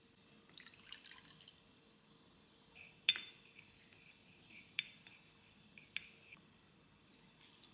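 Light clinks of glass and dishes being handled: a few sharp clinks that ring briefly, the loudest about three seconds in, over a faint steady hum.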